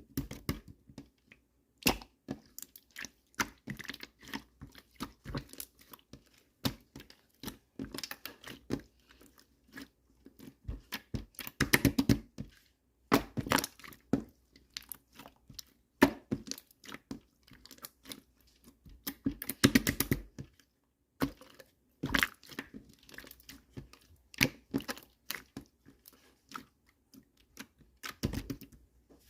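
Translucent slime being squeezed, poked and stretched by hand, giving irregular runs of sticky clicks and crackles, with a couple of louder, denser flurries midway.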